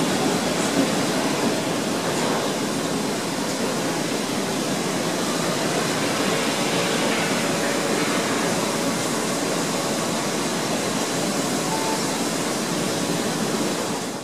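Heritage passenger carriages rolling along the tracks: a steady rushing noise with no clear rhythm, fading out at the very end.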